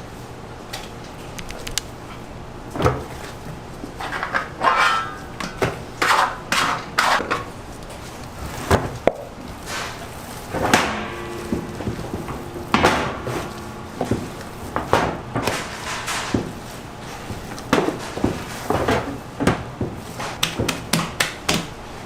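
Irregular knocks, thuds and clatters of food being prepared and handled, some ringing briefly, over a low steady hum.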